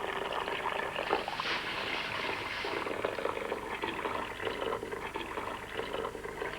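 Water being poured and splashed over an anaesthetised elephant's hide to cool it, a continuous splashing rush that swells between about one and three seconds in.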